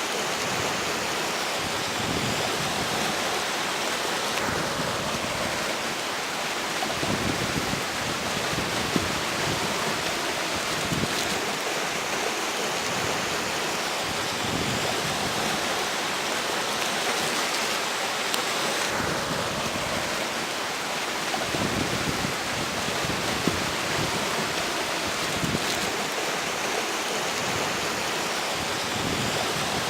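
Steady rushing of a flowing river, mixed with strong wind blowing.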